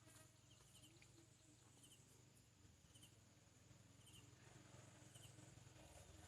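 Faint outdoor insect sound: a steady high-pitched drone with short chirps repeating about once a second. A low rumble grows slowly louder in the second half.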